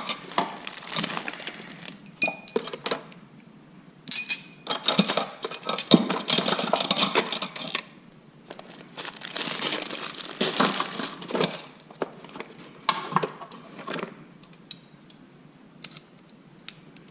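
Small metal hand tools clinking and rattling against each other as they are rummaged through and picked out. It comes in several bursts of jangling with quieter gaps and scattered single clicks between them.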